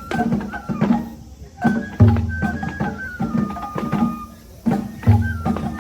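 Japanese festival music (matsuri-bayashi) for a lion dance: a high bamboo flute line that slides and steps over quick, lighter drumming. A deep taiko drum is struck heavily twice, about three seconds apart.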